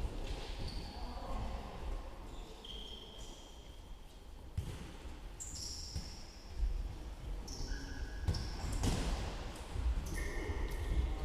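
Football match play: a ball being kicked and bouncing, heard as a few sharp thuds, with many short high squeaks at varying pitches typical of shoes on a hall floor.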